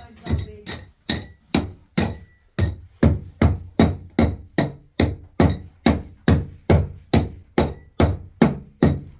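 A hammer striking repeatedly. A few uneven blows with short gaps come first, then a steady run of about two and a half blows a second.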